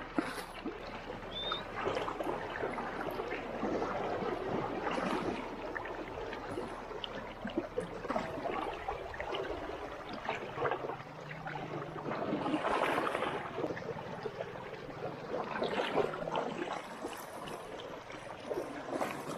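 River water running over a shallow, rocky bed, rising and falling unevenly in surges.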